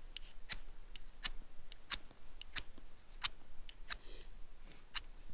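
Fire steel (ferro rod) being struck again and again with a scraper, sharp rasping scrapes roughly every half to three-quarters of a second, throwing sparks at petroleum-jelly-soaked cotton to light a fire.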